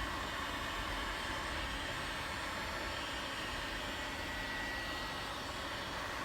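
Construction heat gun blowing steadily, its fan and hot air heating a plastic car bumper to soften it before the dent is pushed out.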